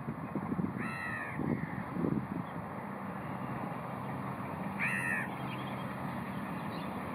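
A bird giving two short, harsh caw-like calls about four seconds apart, over a steady low rumble.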